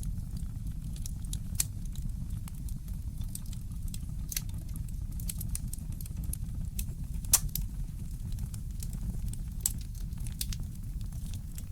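Fireplace crackling: irregular sharp pops and snaps over a steady low rumble, the loudest pop about seven seconds in.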